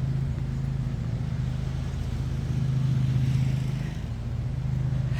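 Steady low engine drone, swelling slightly a little past the middle.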